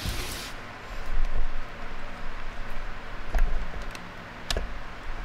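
Handling noise from a fabric travel bag: a brief rustle at the start, then a few soft knocks and clicks, two of them clearer near the end.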